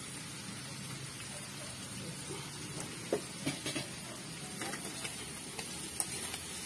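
Chicken sizzling steadily in a pan on a gas stove, with a few sharp metal clinks of a pot lid and utensil near the middle and once near the end.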